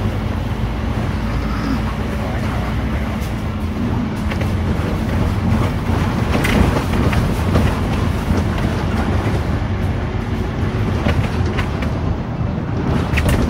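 Scania K310UD double-decker bus on the move, heard from inside the passenger cabin: steady engine and road noise with scattered clicks and rattles.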